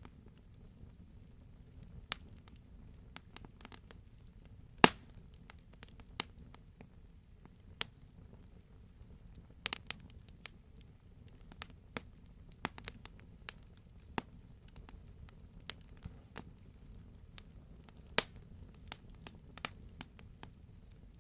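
Wood campfire crackling, with sharp pops of burning logs at irregular intervals over a steady low rumble of the flames; one pop about five seconds in stands out as the loudest.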